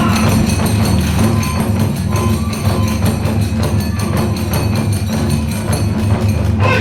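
Kagura accompaniment music: drums and clashing hand cymbals playing a steady, driving rhythm.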